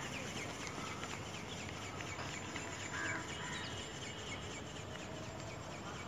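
Birds calling against steady outdoor background noise: short calls scattered through, with a clearer, louder call about three seconds in.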